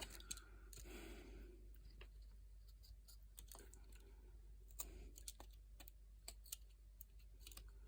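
Faint, irregular clicks and small snicks of a Swiss Army knife blade cutting into basswood.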